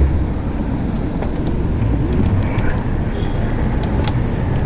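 Steady low rumble of wind and street traffic heard while riding an e-bike through city streets, with a few faint clicks.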